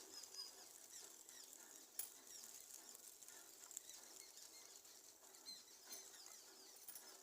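Faint, busy chirping of small birds, many short high calls overlapping, with a single sharp click about two seconds in.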